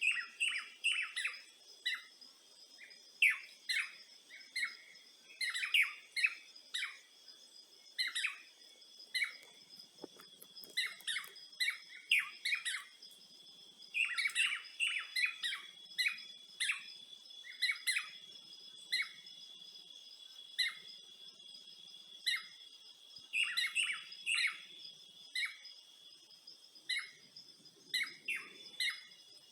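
Birds chirping, short calls coming every second or so over a steady high-pitched insect drone.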